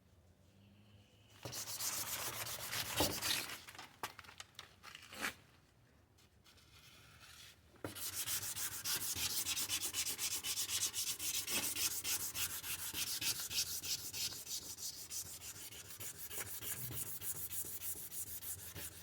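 Sandpaper rubbed by hand over a plastic headlight lens: a short bout of rasping strokes, a pause, then from about eight seconds a steady run of quick back-and-forth strokes.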